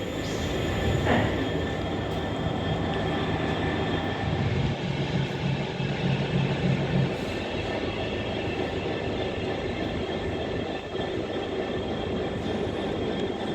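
Class 390 Pendolino electric express train passing through the station, a steady rush of wheels on rail with a low hum that drops away about seven seconds in.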